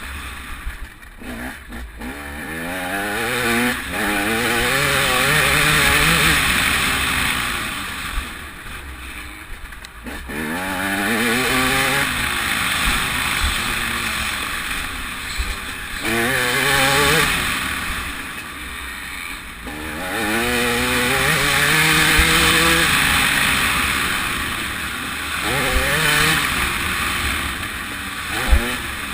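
TM 300 two-stroke motocross engine ridden hard: its note climbs in pitch through the gears again and again, drops away each time the throttle is shut, then picks up again. A sharp knock comes near the end.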